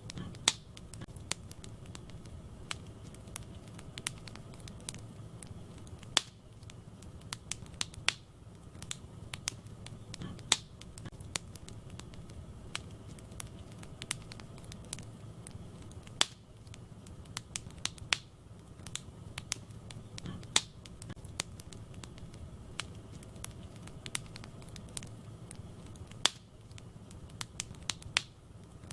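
Wood fire burning in a fireplace: irregular sharp crackles and pops, a few louder than the rest, over a low steady rumble of the flames.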